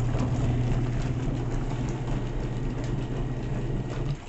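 Tabu mini portable washing machine running its wash cycle: a steady motor hum with churning noise over it that cuts off suddenly near the end.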